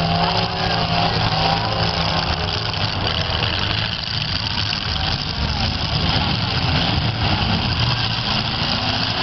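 Demolition derby cars' V8 engines running and revving together, a steady loud mix of engine noise with pitch rising and falling.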